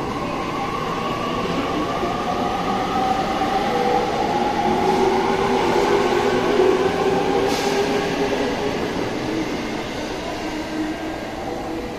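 E257-500 series limited express electric train pulling out of the station and accelerating past, with wheels rolling on the rails and a rising whine. The sound swells to its loudest about halfway through, has a single sharp clack near the middle, then fades as the last cars leave.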